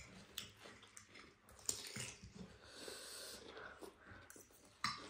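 Close-miked eating: soft chewing and biting with small wet clicks, and a brief breathy hiss about three seconds in.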